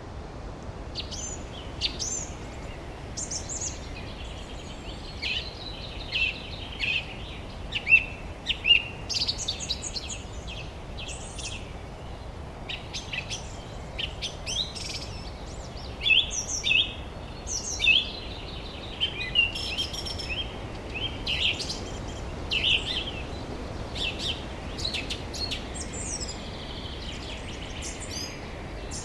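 Several songbirds chirping and singing in a busy chorus of short, quick calls, over steady low background noise.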